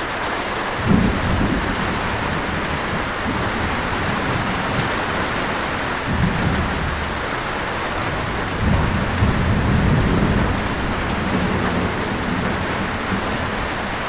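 Steady heavy rain with rolls of thunder: a short clap about a second in, another around six seconds in, and a longer rumble a few seconds after that.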